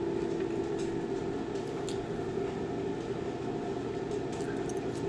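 A steady mechanical hum with a constant tone, and a few faint ticks.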